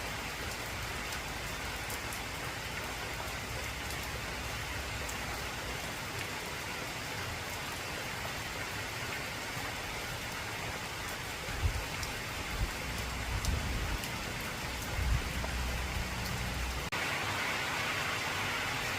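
Heavy rain drumming steadily on a corrugated tin roof. Low rumbles of thunder surge about two-thirds of the way through, and near the end the rain's sound changes abruptly to a brighter hiss.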